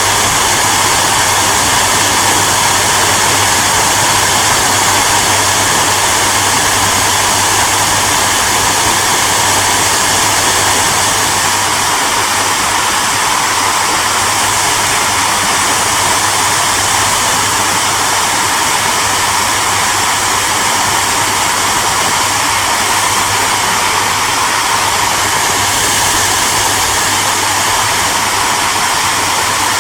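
Hair dryer running steadily: a continuous loud rush of air over a low motor hum, with no change in speed.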